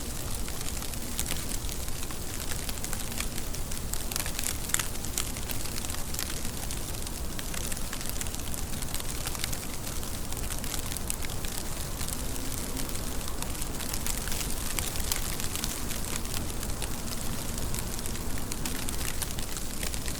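Steady rain with a dense patter of individual drops striking a surface, an even hiss scattered with small sharp ticks.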